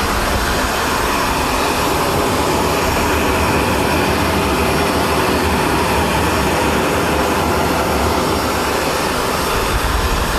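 Steady, loud jet aircraft engine noise that does not rise or fall.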